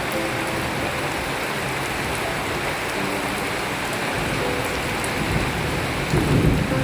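Steady rain falling, an even hiss of drops. A brief low rumble swells about six seconds in.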